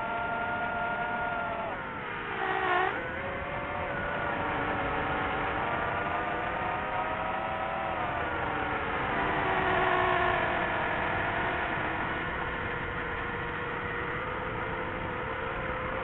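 A motor running with a steady multi-tone whine over a noisy rush; its pitch dips and climbs back about two seconds in and again about eight seconds in.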